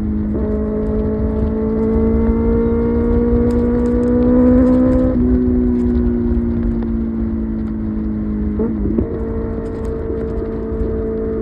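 Kawasaki ZX-6R inline-four engine running at highway speed under the rider, with wind rush. The engine note climbs gradually for about five seconds, dips and slowly falls, then jumps up in pitch about nine seconds in and holds steady.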